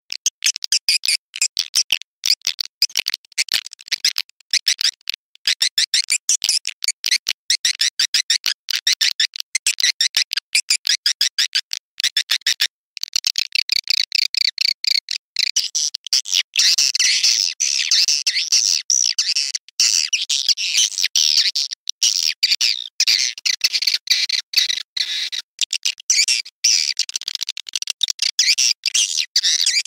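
Swiftlet lure-call recording: rapid, dense high-pitched twittering and chirping of swiftlets, the kind of call sound that swiftlet farmers play to draw the birds into a nesting house. The chirps come in quick chopped runs at first, and about halfway through they run together into an almost unbroken twitter.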